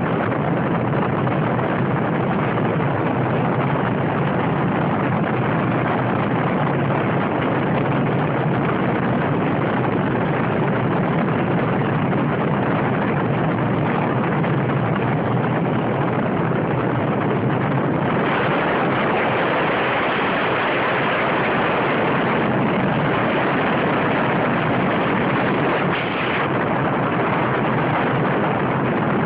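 Steady vehicle noise, engine and road rumble, that turns brighter and hissier about two-thirds of the way through.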